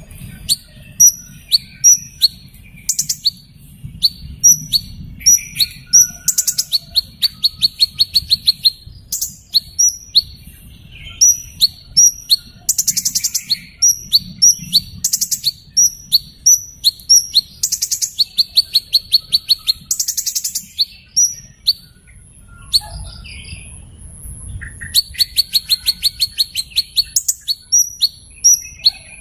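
Hummingbird calling: short, sharp, high chirps, many sliding down in pitch, repeated throughout and broken up several times by fast, rattling trills.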